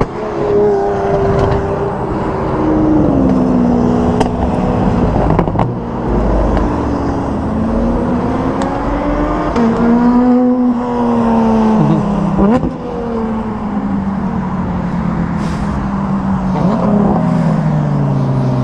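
Supercars driving past one after another, their engines revving, with the engine notes rising and falling in steps through gear changes.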